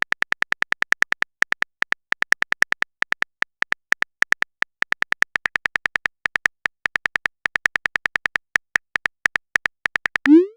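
Phone on-screen keyboard typing sound effect: a quick, uneven run of short, high ticks, about six or seven a second. Near the end it stops and a short rising bloop follows, as of a message being sent.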